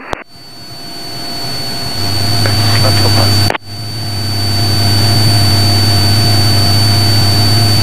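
Steady in-flight cockpit noise of a Cessna Skylane's piston engine and propeller. It swells up over the first couple of seconds, a strong low hum joins about two seconds in, and it cuts out for an instant about halfway through before running on evenly.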